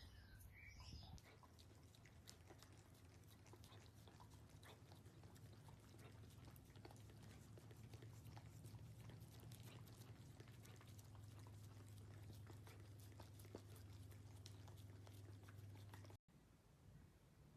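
A dachshund chewing and crunching its food, a quiet stream of small crunches, over a faint steady low hum.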